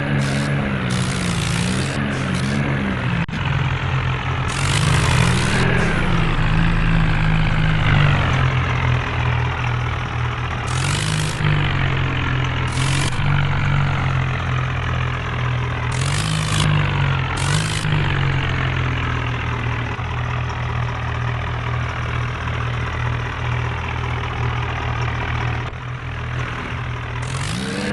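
Tractor engine running steadily at low revs, its pitch wavering slightly, with several short bursts of high hiss or rattle; the revs rise near the end.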